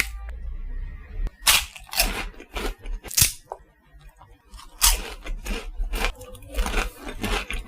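Crisp crunching and crackling of a crunchy wafer snack being bitten and handled: sharp, irregular snaps, several in a row with a quieter gap around the middle.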